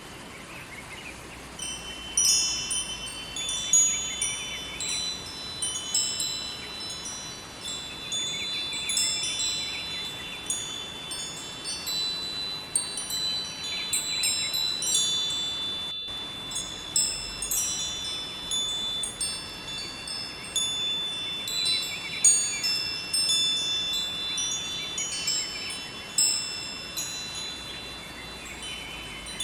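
Metal wind chimes ringing, with high, clear notes struck at irregular moments and overlapping as they ring on. Underneath is a faint, steady hiss of flowing river water.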